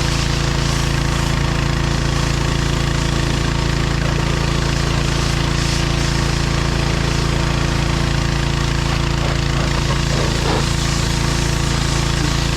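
John Deere 1025R compact tractor's three-cylinder diesel engine running steadily, its pitch and level unchanging.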